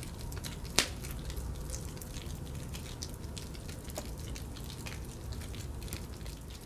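Faint outdoor ambience: a steady low rumble with scattered small clicks and ticks, and a sharper pop about a second in and another about four seconds in.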